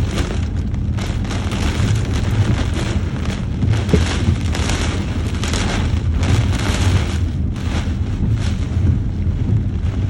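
Heavy rain pouring in a thunderstorm, surging in gusts over a steady low rumble.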